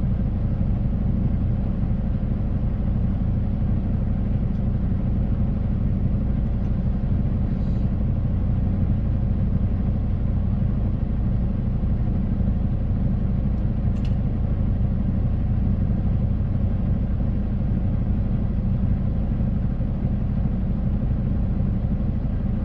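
Semi tractor-trailer cruising on the highway, heard from inside the cab: a steady low drone of the diesel engine with road noise.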